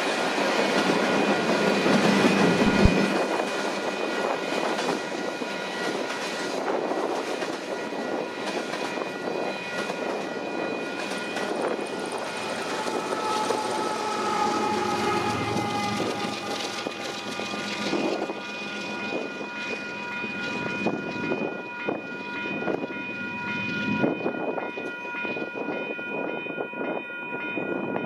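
Union Pacific freight cars rolling past: a steady rumble and wheel clatter of hoppers, tank cars and boxcars, with one sharp clank about three seconds in. Several steady high ringing tones grow stronger through the second half.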